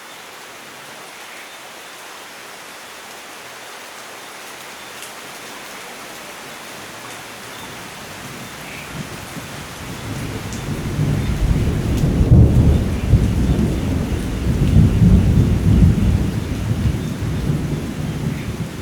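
Steady rain hissing. About halfway through, a deep roll of thunder swells up, peaks and keeps rumbling to the end.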